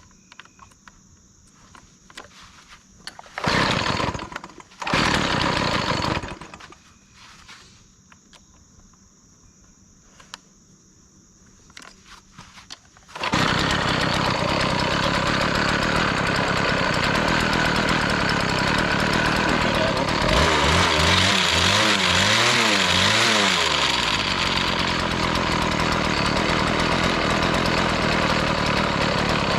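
Small gasoline engine just after a carburettor mixture adjustment: two short bursts as it briefly catches, then about 13 seconds in it starts and runs steadily, revved up and down a few times.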